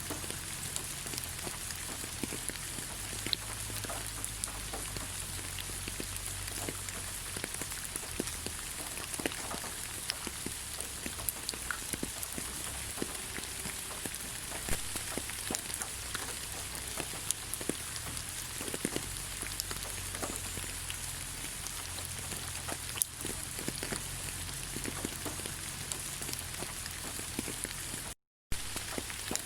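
Steady rain falling on leaves: an even hiss with many separate drops ticking on the foliage. The sound cuts out completely for a fraction of a second about a second before the end.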